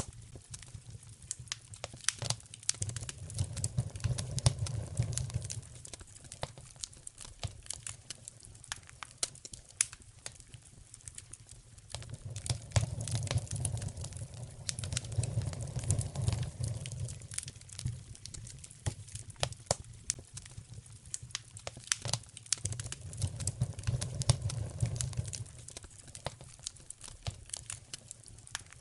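Wood fire in a fireplace crackling, with frequent sharp pops and a low rumble that swells and fades three times.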